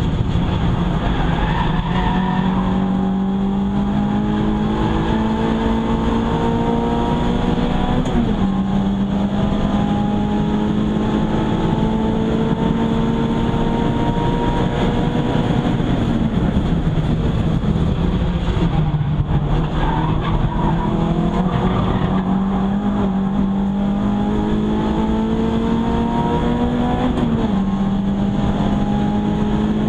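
Renault Clio 172's four-cylinder engine at full throttle, heard from inside the cabin. Its pitch climbs through the gears, drops sharply with upshifts about eight seconds in and near the end, and falls away for a while in the middle before climbing again.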